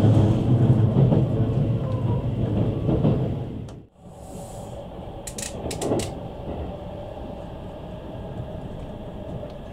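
E653 series electric train running on the rails, heard from inside the passenger cabin: a steady low rumble, loud for the first few seconds, dropping out abruptly about four seconds in and coming back quieter, with a few short clicks about a second and a half later.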